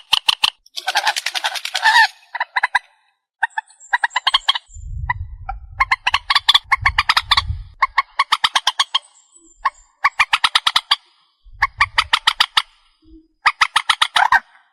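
Calls of the trích ré, a Vietnamese marsh bird, from a lure recording: repeated bursts of rapid, harsh ticking notes, each burst about a second long, with short gaps between. A low rumble sounds under some of the bursts.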